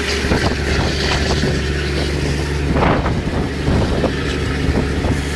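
Small boat's motor running steadily, with wind buffeting the microphone.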